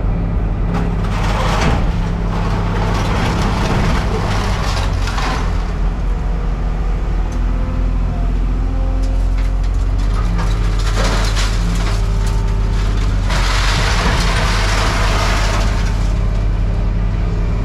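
A vehicle engine running steadily at a low, even hum, with several louder stretches of rough, rattling noise over it.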